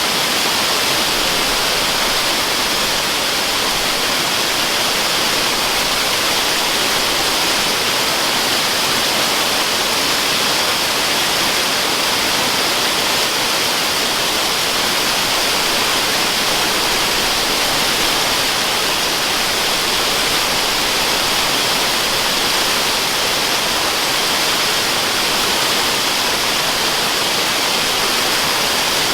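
Waterfall sound: a steady, unchanging hiss of rushing water, strongest in the upper range, with no breaks or separate splashes.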